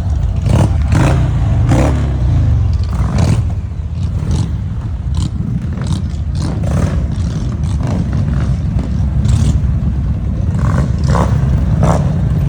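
Motorcycle engines running, a loud steady low rumble that is heaviest in the first few seconds, eases briefly around four seconds in, then builds again, with scattered short clattery sounds over it.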